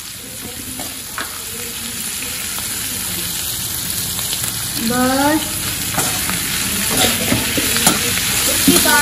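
Chopped onions and green capsicum sizzling in hot oil in a wok, growing louder, while a perforated spatula stirs them and clicks against the pan now and then. A short voice sound about five seconds in.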